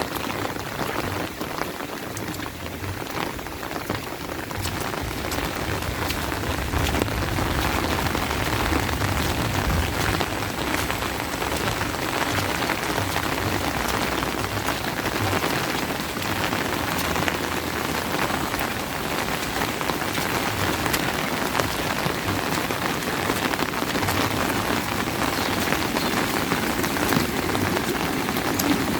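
Steady rain falling, with many close drops ticking sharply all through.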